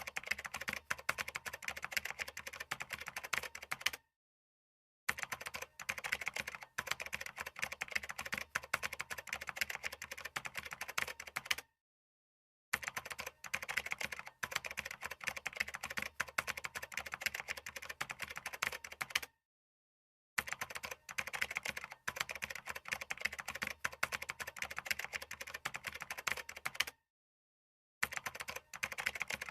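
Computer keyboard typing: a fast, continuous run of keystrokes that stops dead into complete silence for about a second four times, at roughly even intervals.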